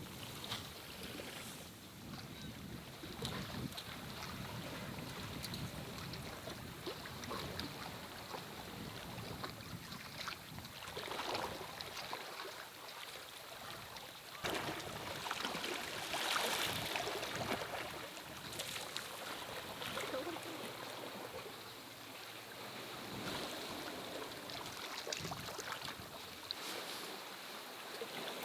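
Sea waves washing against shore rocks, rising and falling in surges every few seconds, with a few small knocks and wind on the microphone.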